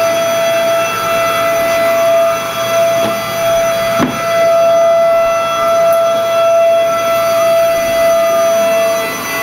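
Vacuum cleaner motor running with a loud, steady high whine, with a single knock about four seconds in. Near the end a puppy's wavering howl rises over it.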